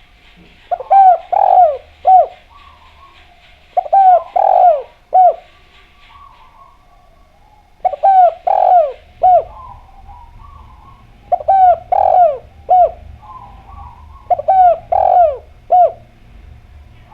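Derkuku (spotted dove) cooing its song five times. Each phrase is a short coo, a longer loud coo and a short final note, and the phrases come about every three and a half seconds.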